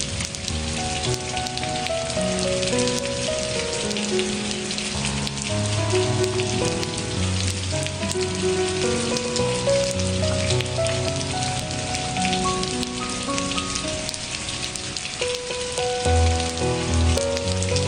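Steady rain noise mixed with soft, slow instrumental music: a melody of held notes moving step by step over a low bass line.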